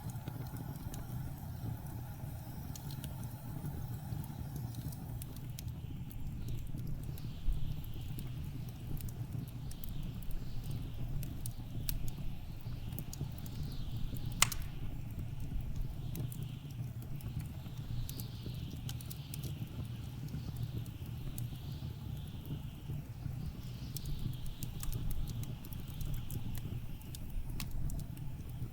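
Wood fire crackling with scattered sharp pops, one loud pop about halfway through, over a steady low rumble of blizzard wind. Gusts of wind whistle in repeated rising-and-falling sweeps from a few seconds in.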